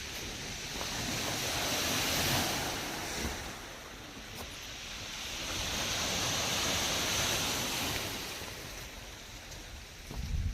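Black Sea surf washing onto the shore in two swells, the first cresting about two seconds in and the second around six to seven seconds in.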